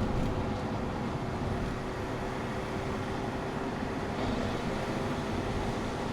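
Car cruising on a wet road: steady tyre and road noise with spray, under a low, even hum.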